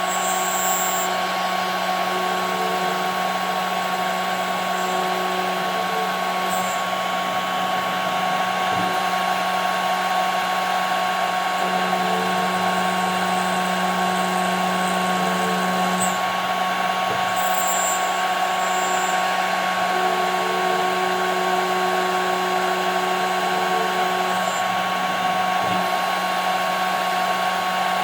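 CNC router spindle running steadily while milling 5 mm plexiglass, a constant high whine over a hiss, with a lower hum that steps up and down every few seconds.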